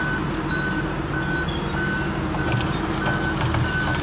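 A backup alarm beeping steadily, about one beep every half second or so, over the low rumble of a heavy diesel machine's engine.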